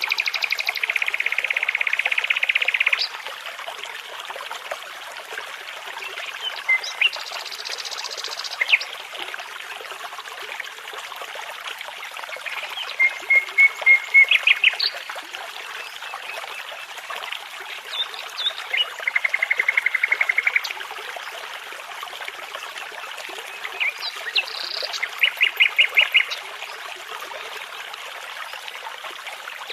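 Songbirds singing over the steady rush of a babbling brook. The birds give separate phrases: a buzzing trill at the start, rapid runs of repeated notes in the middle and near the end, and another trill about two-thirds of the way through.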